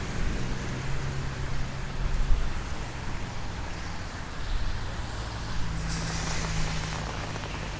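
City street traffic: vehicle engines running steadily, with a brief hiss about six seconds in.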